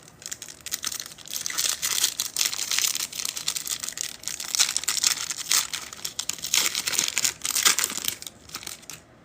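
Foil trading-card pack wrapper crinkling and tearing as it is ripped open and handled, in irregular crackling bursts that die away near the end.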